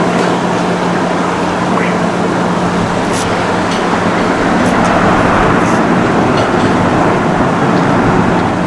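Jet engine noise from a Boeing 737-800 airliner near the runway: a loud, steady rush that swells a little past the middle, over a steady low hum.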